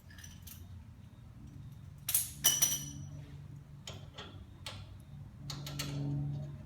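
Metal clinks and taps of steel bolts and hand tools as the wheel hub assembly's mounting bolts are handled and started into their holes. A cluster of sharp, ringing clinks about two seconds in is the loudest, with scattered lighter clicks around it.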